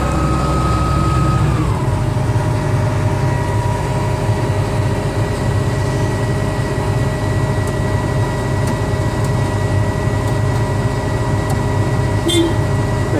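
Case IH 7230 Axial-Flow combine's diesel engine running steadily with a whine; about a second and a half in the whine drops in pitch as the engine slows, then holds steady. A short beep sounds near the end.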